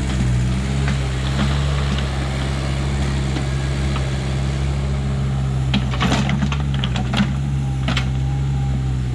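Backhoe's diesel engine running steadily at a low hum, with a few sharp knocks and clanks about six to eight seconds in as it works.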